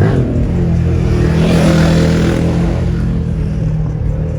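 A car engine running loud and revving, with a steady low drone and a swell of rushing noise over it in the middle.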